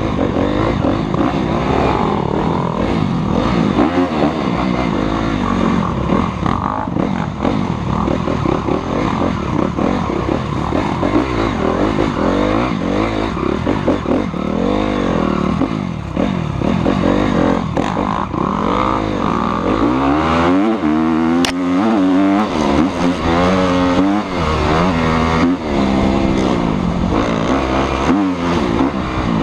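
Motocross bike engines revving, their pitch rising and falling again and again as they accelerate and shift, with a strong run of sweeping revs about two-thirds of the way in.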